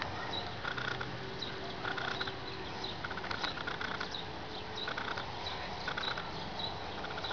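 Short bird chirps repeating roughly once a second, over a steady background hiss.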